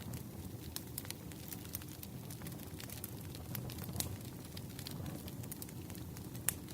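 Campfire burning: a steady low rumble of flames with scattered sharp crackles and pops from the wood, one louder pop near the end.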